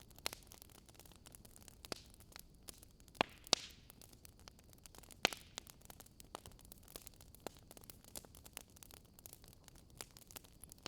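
Wood fire crackling: irregular small pops and clicks of burning firewood, with a few louder snaps from about three to five seconds in.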